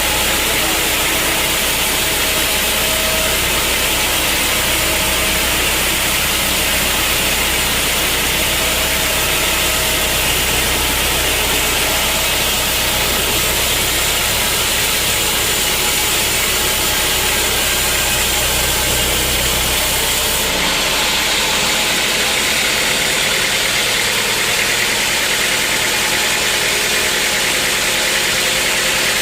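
Sawmill machinery running with a loud, steady mechanical noise. About twenty seconds in the sound changes abruptly, losing its deep rumble and its highest hiss.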